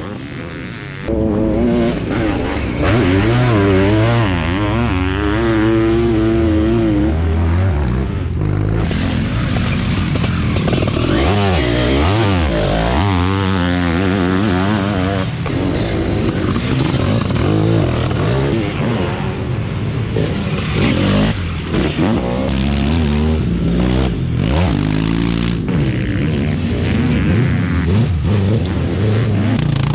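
700cc two-stroke Zabel sidecar motocross engines, several outfits, revving up and down hard as they race around the dirt track, pitch rising and falling with each throttle change. It gets louder about a second in.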